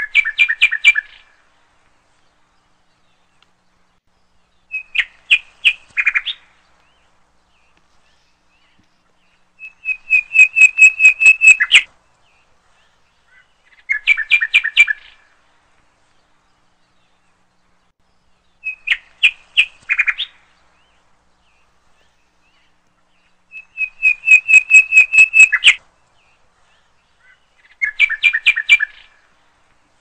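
A songbird singing: seven short phrases of rapid repeated notes, each one to two seconds long, coming every three to five seconds.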